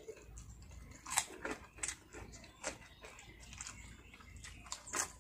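Close-up eating sounds of people eating by hand: chewing and mouth smacks, with a handful of brief, sharp smacking clicks spread through.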